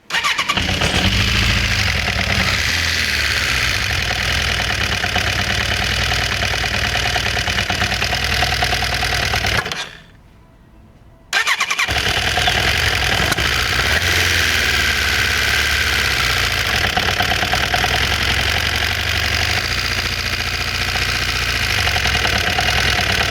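Suzuki GSF750's inline-four engine running, with a knock in the engine that the owner cannot yet explain. The sound drops away for about a second and a half near the middle, then comes back abruptly.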